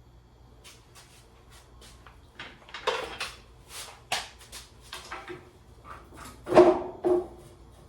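Series of short metal knocks, clicks and scrapes as the two halves of a Ford 2N tractor are worked apart, with a louder clunk that rings briefly near the end.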